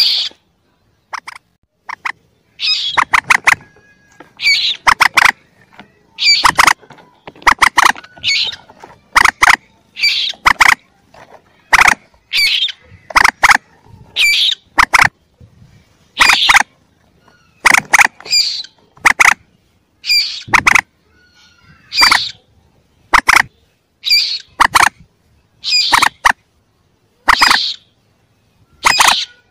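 Common moorhen chick calls, played as a hunter's lure recording: short, loud, sharp calls repeated about once every second or so, with brief silences between.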